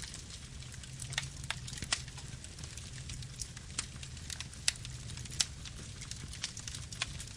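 Wood fire burning: irregular sharp crackles and pops, about one or two a second, over a steady low rumble of the flames.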